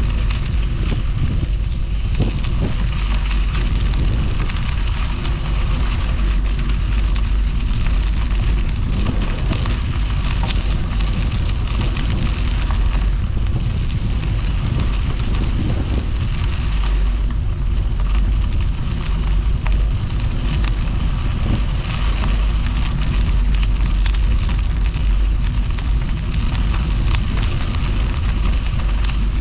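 Wind rumbling on the microphone of a bicycle-mounted camera while riding, over a continuous fine crackle of bike tyres rolling on a crushed-stone towpath.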